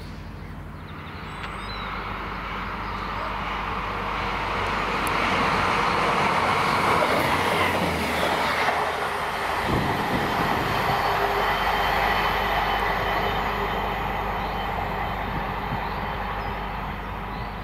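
A diesel passenger train passing close at speed: wheels on rail and the underfloor engine, building to its loudest midway and easing off toward the end.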